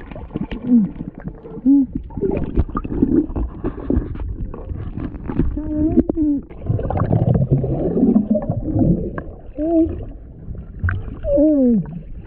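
Muffled sloshing and gurgling of water with a low rumble, broken by several brief voice sounds.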